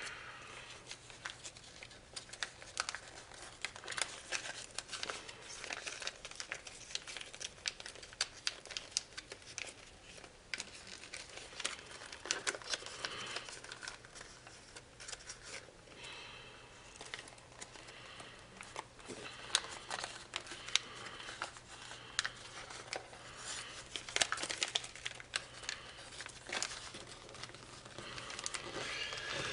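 Sheet of foil origami paper crinkling and crackling as it is handled, opened out and pressed flat again, with irregular sharp crackles throughout.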